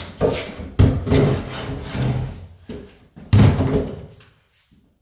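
Heavy blows into a wooden cabinet being demolished: a sharp strike about a second in and a louder one a little past three seconds, each followed by wood scraping and rattling as it dies away.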